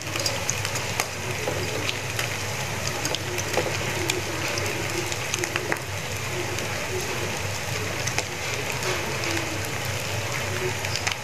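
Battered small shrimp fritters shallow-frying in oil in a nonstick pan: a steady sizzle with scattered small pops and crackles, over a low steady hum.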